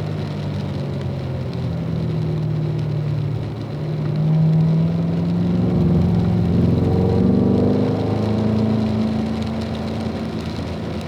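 Car engine pulling under throttle on a wet track, its pitch climbing for several seconds, dipping briefly about seven seconds in, then holding steady.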